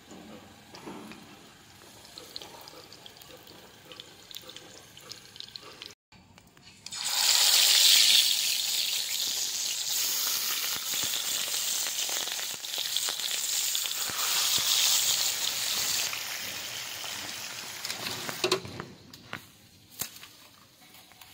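Food frying in hot oil in a pan: a loud sizzle starts suddenly about seven seconds in, as food goes into the hot oil, and slowly dies down over about ten seconds. Before it there are only faint handling sounds.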